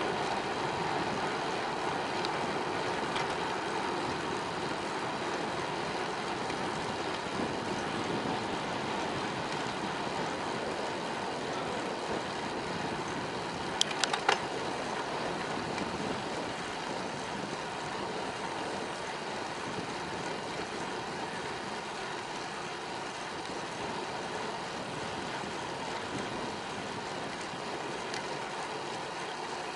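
Steady wind and rolling noise from a bicycle being ridden, with three sharp clicks in quick succession about halfway through.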